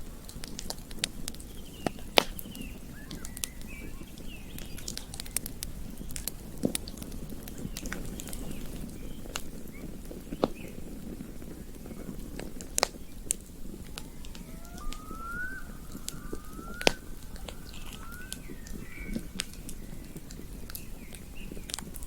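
Campfire burning with a steady low hiss and irregular crackles, with a handful of louder sharp pops. Near the middle, a few short rising chirps sound over it.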